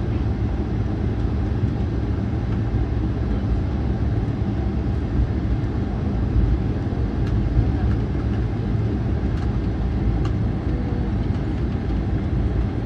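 Jet airliner cabin noise on the ground after landing: a steady low rumble, with a few faint clicks about seven and ten seconds in.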